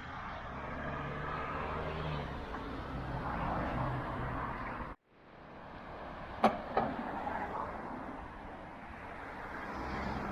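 A motor vehicle passes with a low engine hum. About halfway the sound cuts out abruptly, then returns as steady street noise with two sharp clicks in quick succession.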